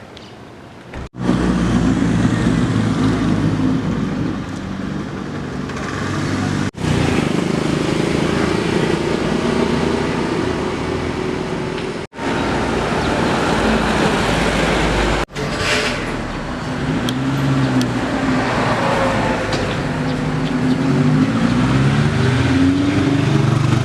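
Motor vehicle engine running on the road, its pitch rising and falling, heard in several stretches broken by sudden drops to silence.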